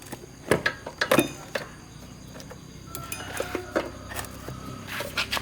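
Irregular light metallic clinks and knocks from metal parts and tools being handled, the loudest about a second in, over a faint low hum.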